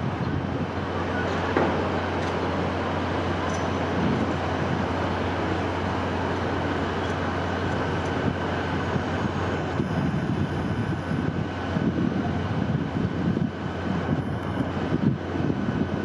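Steady rushing wind with a low rumble that swells and eases in gusts.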